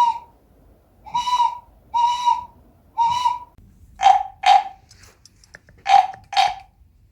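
Small bird-shaped toy whistle blown to imitate a bird: four short steady notes of the same pitch, then two quick pairs of slightly lower, shorter notes.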